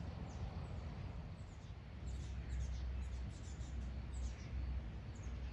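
Small birds chirping: many short, high, falling chirps, over a steady low rumble.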